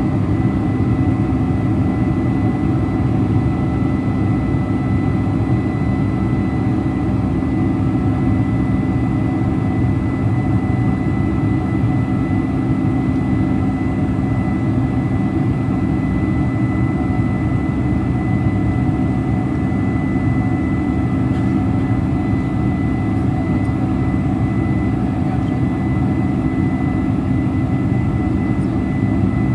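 Steady cabin drone inside a Boeing 747-400 Combi airliner: its jet engines and rushing airflow, with a few high steady whine tones over a deep rumble, unchanging throughout.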